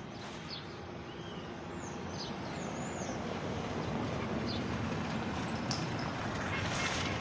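Small birds chirping briefly over a broad rushing noise that builds steadily louder.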